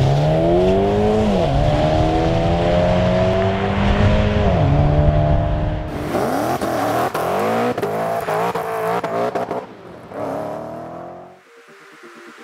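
Stage 2-tuned Audi A4 2.0T turbocharged four-cylinder accelerating at full throttle down a drag strip. Its revs climb and drop back with each automatic Tiptronic upshift, several times, then fade away near the end.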